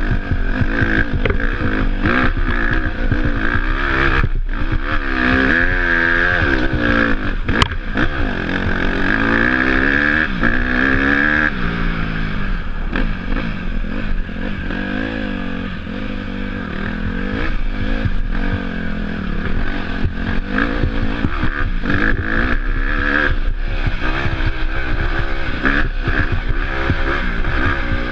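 Off-road motorcycle engine revving up and down as the bike is ridden, its pitch rising and falling every second or two, with a single sharp click about eight seconds in.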